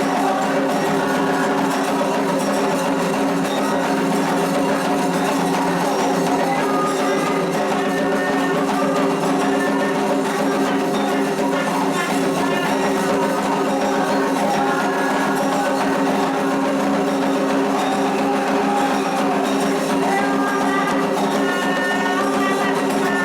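Candomblé ritual music: hand drums and percussion playing a continuous rhythm, over steady sustained tones.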